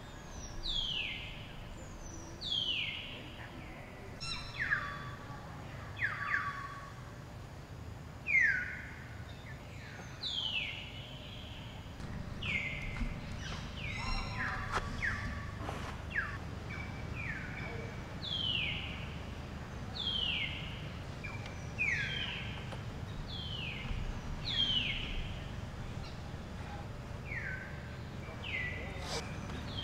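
A bird calling over and over, each call a short note that drops steeply in pitch, repeating every second or two over a steady low background rumble.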